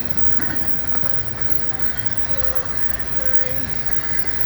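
BNSF double-stack intermodal freight train rolling past with a steady rumble of wheels on rail, and short squeals now and then.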